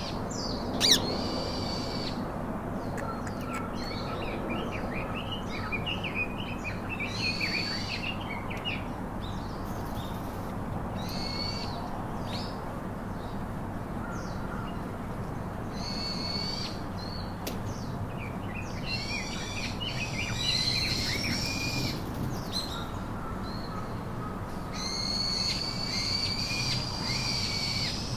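Pet parrots calling in short clusters of high, chirping squawks every few seconds, over a steady background hiss. There is one sharp click about a second in.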